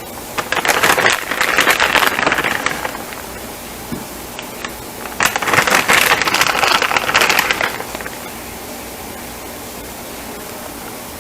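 Two bursts of crackly rustling, each about three seconds long: the remaining shredded cheese being shaken out and sprinkled on top.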